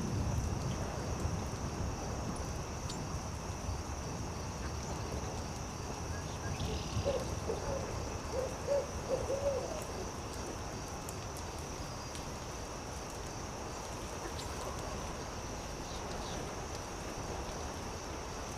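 Owl hooting: a run of about five short, low hoots between about seven and ten seconds in. Beneath it are a steady high insect drone and a low rumbling bed of noise with scattered faint crackles from a campfire.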